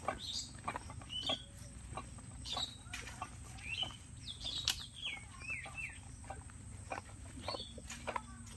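Outdoor birds giving short, scattered chirps, with a few faint clicks over a low steady background.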